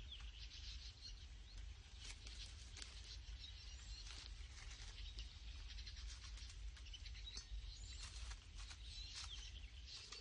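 Faint outdoor ambience: small birds chirping now and then, with scattered clicks and crackles over a steady low hum.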